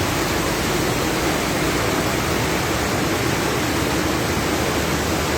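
Steady rushing of water, a loud, even noise with no breaks.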